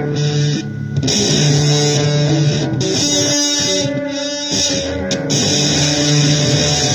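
Electric guitar playing a blues-style passage, held notes broken by short pauses.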